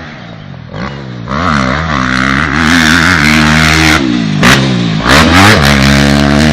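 Motocross bike engine revving hard, its pitch swinging up and down with the throttle and gear changes, getting much louder about a second in as the bike comes close.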